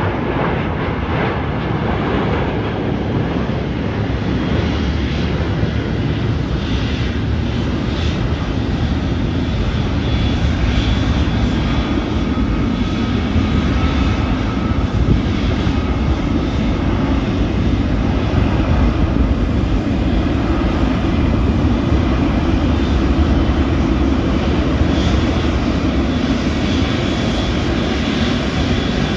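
An airliner's engines running loud and steady, a dense roar with a deep rumble that swells a little about ten seconds in and again near twenty seconds.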